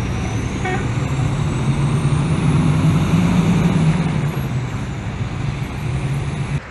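Engine running steadily, swelling about three seconds in, with a faint high whine that rises and then falls; it cuts off suddenly near the end.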